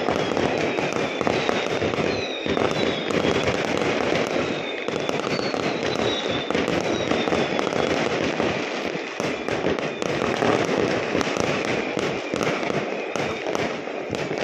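Many aerial fireworks going off at once over a town: a continuous, dense popping and crackling of bursts, with a few short descending whistles.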